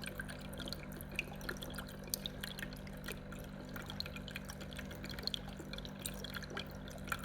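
Water dripping and trickling: many small, irregular drops over a faint steady low hum.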